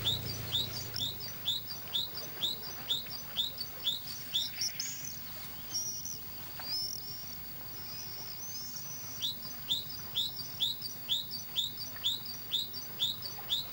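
A small bird calling in a rapid series of sharp, high, downward-slurred notes, about three a second. The notes pause for several seconds midway, then start again.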